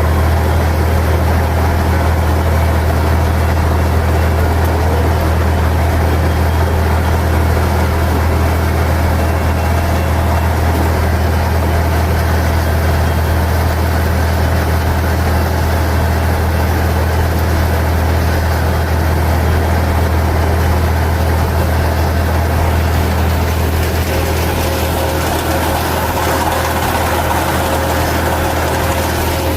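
1964 Farmall 460 diesel tractor engine running steadily, a constant low drone that holds the same pitch throughout.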